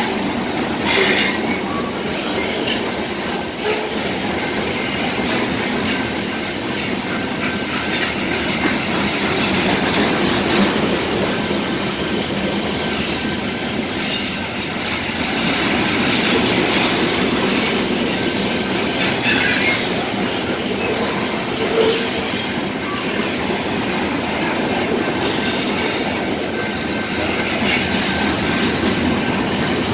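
Freight train of covered hopper cars rolling past: a steady rumble and rattle of steel wheels on rail, with clacks now and then and a few brief wheel squeals.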